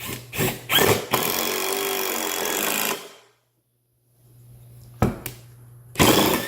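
Black & Decker 20V cordless impact driver driving a screw: its impact mechanism hammers in a rapid, steady rattle for about two seconds, with sharp knocks before and after it.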